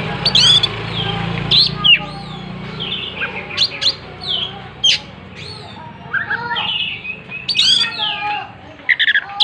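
Oriental magpie-robin (kacer) singing a loud, varied song of sharp whistled notes and quick rising and falling phrases.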